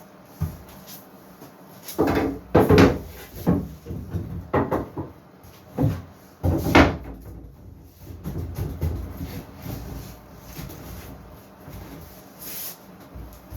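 Wooden knocks and bumps as pieces of wood are handled, a cluster of sharp knocks in the first half, followed by quieter shuffling and scraping.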